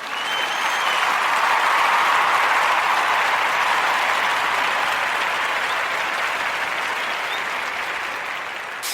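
A large crowd applauding: dense clapping that swells in quickly, peaks about two seconds in and then slowly fades.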